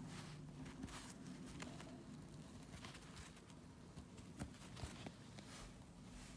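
Faint scattered ticks and soft rustles of hand work on a rug, with a couple of slightly sharper clicks past the middle.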